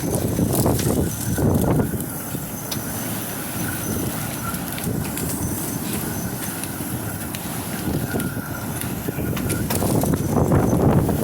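Quarter-size hail pelting down in strong wind: a dense clatter of hailstones with many sharp separate impacts, and wind gusting on the microphone, strongest about a second in and again near the end.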